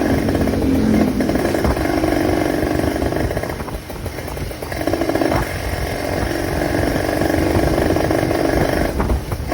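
Motorcycle engine with a Keihin PWK 28 carburetor and velocity stack running and being revved, giving a throaty 'ngorok' growl. The throttle eases off briefly twice, about four seconds in and near the end.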